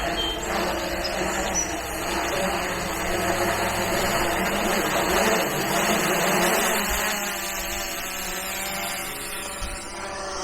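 PowerEgg X quadcopter drone's propellers and motors whirring in flight, a layered hum whose pitch shifts about seven seconds in as the motors change speed.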